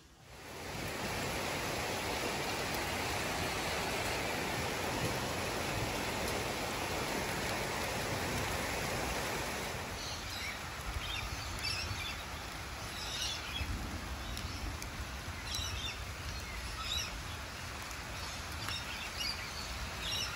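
Steady rain falling. About ten seconds in it becomes a little softer, and small birds chirp here and there over it.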